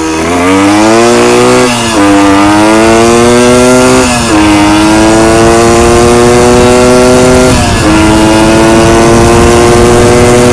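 Kawasaki F11 250cc single-cylinder two-stroke engine pulling under way. The revs climb in each gear, and the note drops briefly three times as the rider shifts up.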